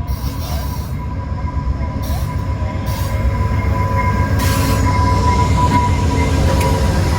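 A train rolling past, its low rumble building louder about halfway through, with a steady high thin tone over it.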